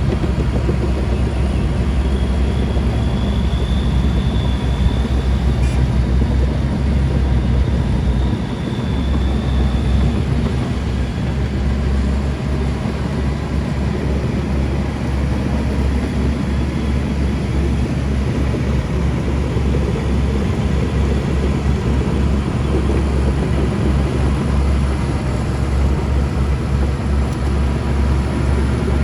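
Heavy diesel earthmoving machinery running steadily with a deep, continuous engine rumble.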